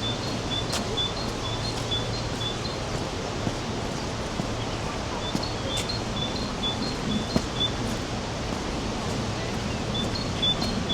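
A bird repeating a short, high chirp about three times a second, in three runs, over a steady rush of falling water.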